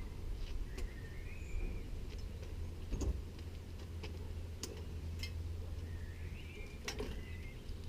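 A handful of sharp, scattered clicks and light knocks from work on a bicycle, over a steady low rumble, with a bird chirping briefly twice.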